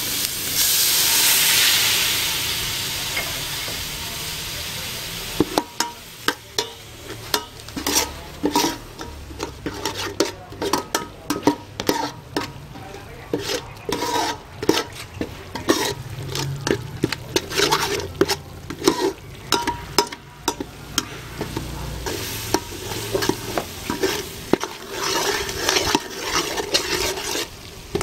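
Food frying in hot oil in a pan, with a strong burst of sizzling in the first couple of seconds. From about five seconds in, a cooking utensil stirs and scrapes through it, making quick irregular clicks and knocks against the pan over the continuing sizzle.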